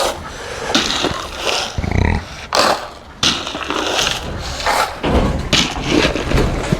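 Penned goats and sheep calling in short, irregular bleats, with bursts of wind rumbling on the microphone.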